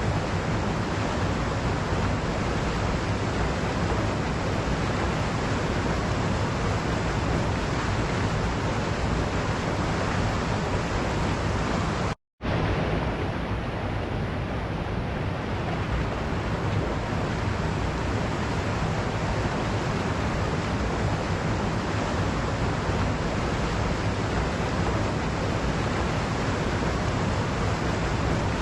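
Waterfall rushing as a steady, even roar of water. It cuts out completely for a split second about twelve seconds in, then resumes as before.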